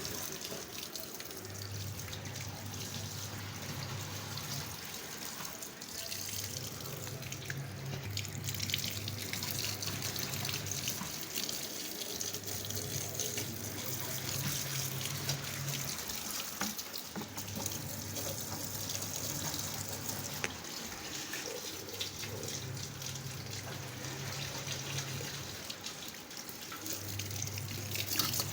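Water running steadily from a tap and splashing. Under it runs a low hum that switches between two pitches every couple of seconds.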